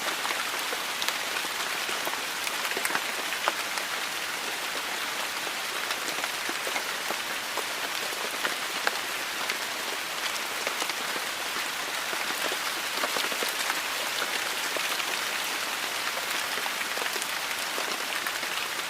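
Heavy rain falling steadily, a dense hiss with many individual drops pattering on a hard surface.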